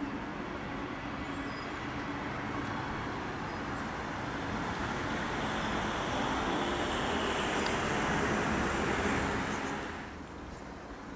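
Electric double-deck regional train running into the station, a steady rolling rumble with a low hum under it that slowly builds, then drops off sharply near the end.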